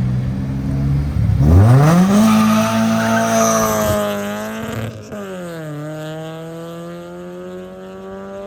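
A car's engine launching hard from low revs: the revs climb steeply about a second and a half in, with some tyre squeal. It drops pitch at an upshift about five seconds in, then pulls again while fading away. It is a hard launch with the clutch slipped, which left a burning-clutch smell.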